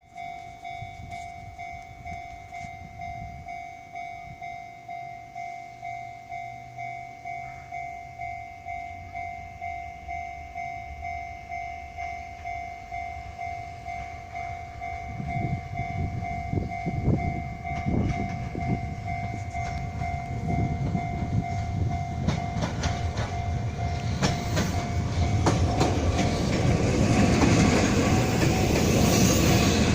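Japanese level-crossing warning bell ringing in an even, repeating pulse. From about halfway a Kobe Electric Railway 6500-series electric train approaches and passes, its wheels clattering over the rail joints, growing loudest near the end.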